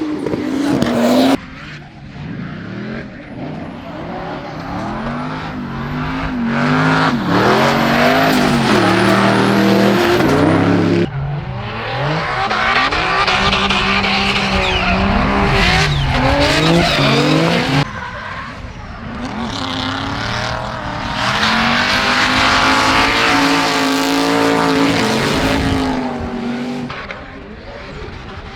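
Drift cars' engines revving hard up and down, with loud tyre squeal as the cars slide. The sound changes abruptly a few times as one car's run gives way to another's.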